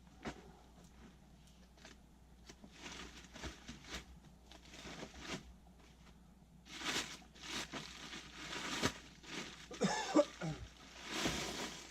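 Rustling and handling noise with scattered small clicks, and a short cough-like throat sound about ten seconds in.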